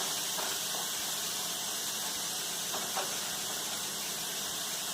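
Cubed chicken breast sizzling steadily in a hot skillet on medium-high heat, with a faint tap about three seconds in.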